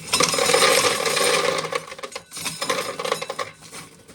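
Corn sheller working an ear of corn: a dense mechanical rattle of kernels being stripped off and falling, starting suddenly, heaviest for about two seconds and then thinning out and stopping near the end.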